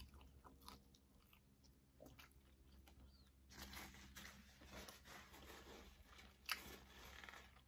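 Faint close-miked chewing, with crunchy bites of fried fast food building up in the second half and one sharper crunch near the end.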